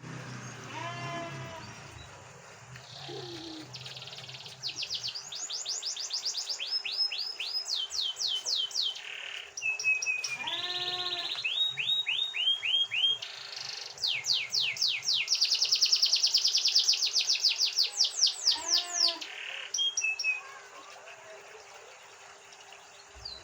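Domestic canary singing a long, varied song of rapid repeated trills and buzzy rolls, louder from about four seconds in and tailing off near the end.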